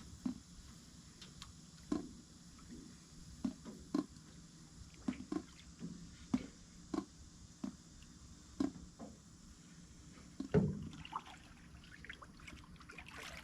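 Water lapping and slapping against the hull of an aluminum jon boat floating during a leak test. It comes as short, irregular knocks about once a second, with a louder slap about ten and a half seconds in.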